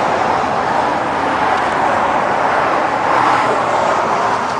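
Steady tyre and road noise of highway traffic, swelling about three seconds in as a vehicle passes.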